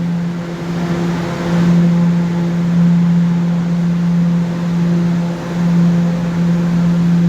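New York City subway train at the station, giving off a steady, loud electrical hum that dips briefly twice, with a short rush of hiss about a second in.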